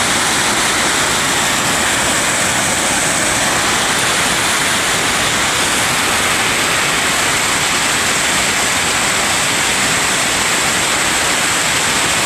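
Steady rush of fast-flowing floodwater in a rain-swollen river.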